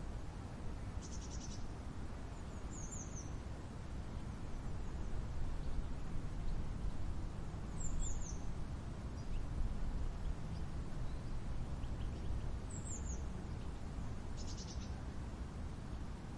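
Birds calling over a steady low rumble: a short, high, down-slurred call repeated three times about five seconds apart, and a quick rattling trill about a second in and again near the end.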